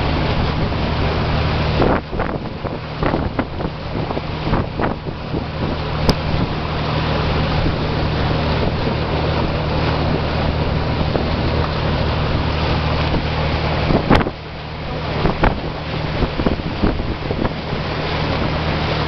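Boat engine running with a steady low hum, under wind buffeting the microphone and the sea rushing past.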